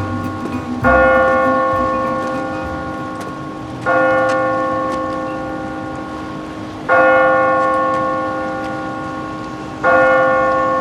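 A large bell tolling slowly: four strokes about three seconds apart, each ringing on and fading before the next.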